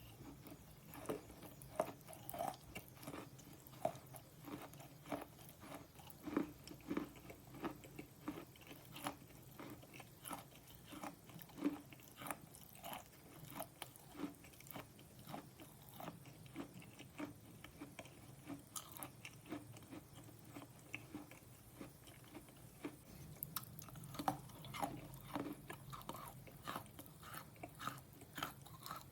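Slate pencils being bitten and chewed close to the microphone: a steady run of crisp, irregular crunches, about two a second.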